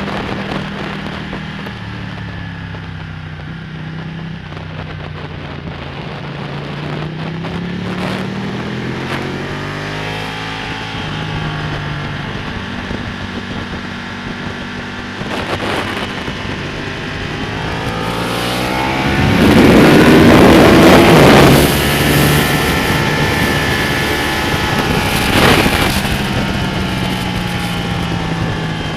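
Ducati Panigale's V-twin engine running at track speed, its pitch climbing and falling as the revs rise and the gears change, with wind rushing over the microphone. It is at its loudest about two-thirds of the way through, as the revs climb hard and the wind rush swells.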